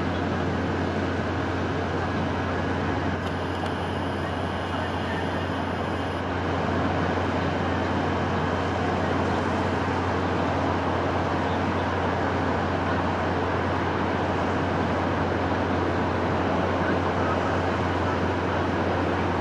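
Steady wind: a continuous, even rushing with a constant low hum beneath it.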